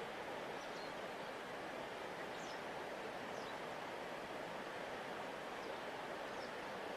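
Steady rushing of a wide river's flowing water, with a few faint, short, high chirps scattered over it.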